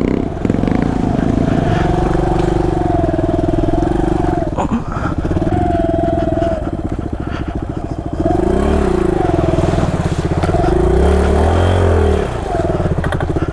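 Single-cylinder Suzuki dirt bike engine running under heavy throttle, its revs wavering up and down as the bike churns through mud. It briefly dips about four and a half seconds in, eases off for a moment near the middle, then revs up and falls again twice in the last few seconds.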